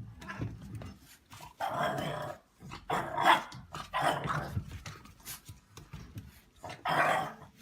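A dog vocalizing in about four short bursts with pauses between them.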